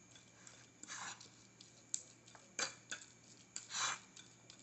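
Canned sardines being mashed in a dish: faint, irregular scrapes and clinks of cutlery against the dish, about one a second.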